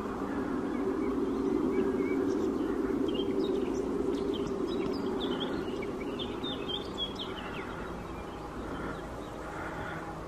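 Birds chirping in short quick calls over a low, steady rumble that swells in the first seconds and slowly fades.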